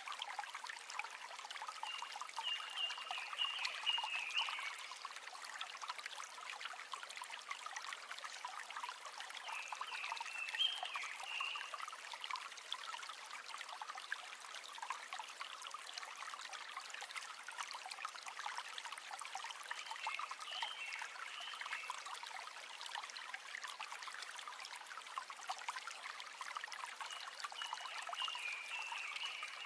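River water running and trickling steadily over stones. Short high chirping phrases from a calling animal come through four times, roughly every eight to ten seconds.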